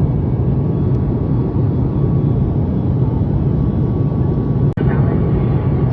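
Steady cabin drone of a Boeing 737 MAX 8 in flight: a low rumble of engine and airflow noise heard from inside the passenger cabin, with a momentary break near the end.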